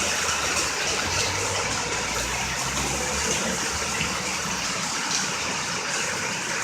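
Heavy rain pouring down in a steady hiss, a torrential downpour, with a faint low rumble underneath in the first few seconds.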